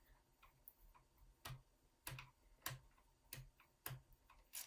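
Faint, evenly spaced clicks, about one every 0.6 seconds, from a small screwdriver turning out the bottom-panel screws of an MSI GP66 Leopard laptop.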